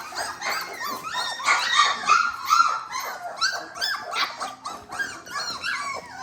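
Litter of three-week-old Labrador Retriever puppies whining and yipping over one another in a continuous stream of short, high, rising-and-falling calls.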